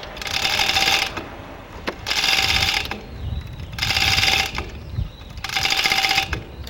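Hand-operated hoist lifting a car engine, its ratchet clicking fast in strokes: four bursts of about a second each, spaced about a second and a half apart, as the hoist is worked in pulls.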